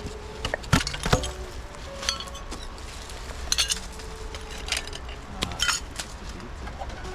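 Glass bottles clinking against each other as littered glass is picked up and gathered, an irregular run of sharp clinks with brief ringing, the loudest about a second in.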